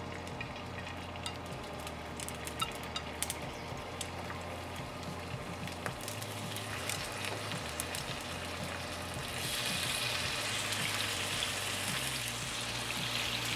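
Marinated chicken wings frying in hot oil in a nonstick pan as they are laid in to brown: scattered crackles and spits at first, becoming a fuller, steady sizzle about nine seconds in as more wings go into the pan.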